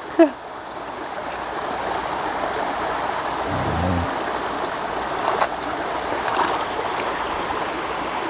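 Running stream water rushing steadily, growing louder over the first two seconds, with a few sharp clicks and a short low sound near the middle.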